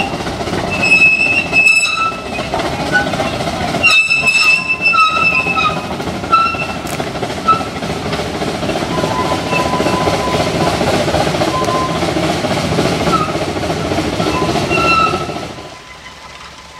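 A small logging train of log cars, flatcars and a caboose rolls slowly past on narrow-gauge track with a steady rumble and clatter of wheels on rail. Short high-pitched squeals come at irregular moments, twice more strongly about a second in and about four seconds in. The sound drops away sharply about fifteen seconds in.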